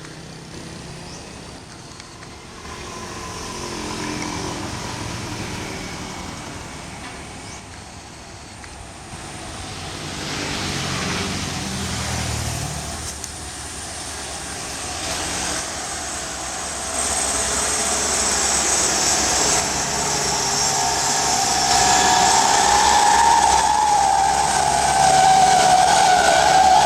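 Dump truck engine labouring up a steep climb under load, growing steadily louder as it comes closer, with a high wavering whine joining in over the last ten seconds.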